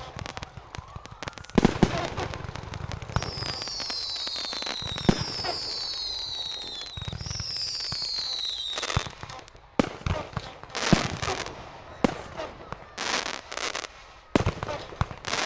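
Class C consumer fireworks going off: sharp bangs and crackling from aerial shells, with three whistles falling in pitch in the middle, one after another.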